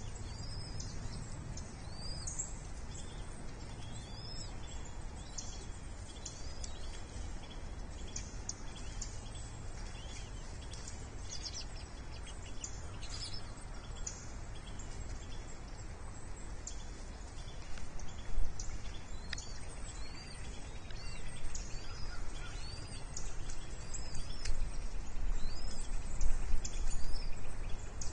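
Repeated high, thin bird chirps, each a short arch in pitch, come every second or two over a steady low rumble. In the second half the sound grows louder, with a few sharp knocks.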